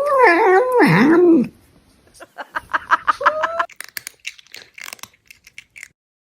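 Domestic cat giving a long wavering meow that falls steeply in pitch, followed about two seconds in by a quick run of short chirping sounds rising in tone, then a few faint clicks.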